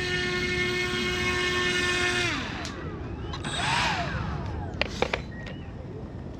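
A long, steady train horn blast that drops in pitch and dies away about two and a half seconds in, followed by a brief whoosh and a few sharp clicks.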